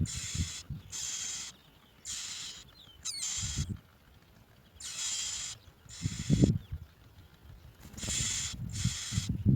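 Bar-winged prinia nestlings begging in repeated short raspy bursts, about eight of them, with dull low thumps and rustling of the nest between them, the loudest thump a little past the middle.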